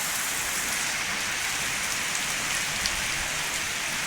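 Heavy rain pouring down in a steady dense hiss, with scattered sharp ticks of drops striking nearby surfaces.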